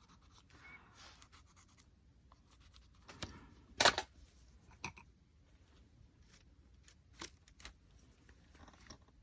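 Faint rubbing and scratching on paper as gray color is worked onto small paper pieces, with a few light taps, the loudest about four seconds in.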